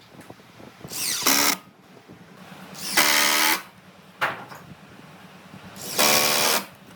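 Power drill run in three short bursts, each about half a second of motor whine, spaced about two to three seconds apart, with a brief blip between the second and third.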